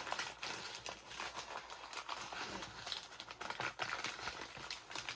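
Paper crinkling and rustling as it is handled, an irregular run of small crackles.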